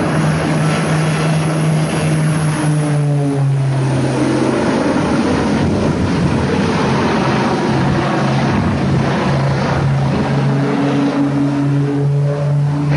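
Propeller aircraft engine running steadily under a loud rushing noise, its low hum shifting slightly in pitch a few times.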